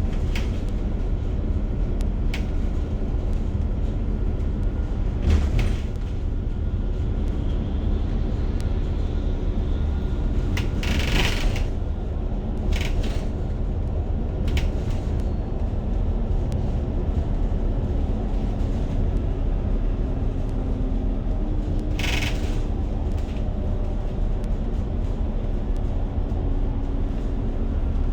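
Bus in motion heard from inside the cabin: a steady low engine and road rumble. Several short hisses break in, the strongest about 11 and 22 seconds in.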